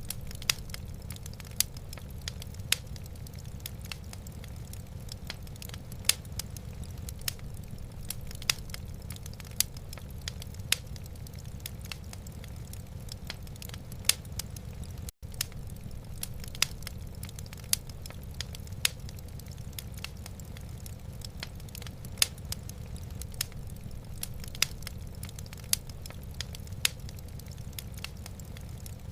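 Wood fire crackling in a fireplace: sharp pops every half second or so over a steady low rumble. The sound cuts out for an instant about halfway through.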